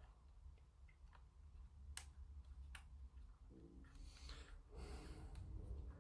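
Faint handling noises of small plastic model-kit parts being fitted: two light clicks, then a soft rustle near the end, over a low room hum.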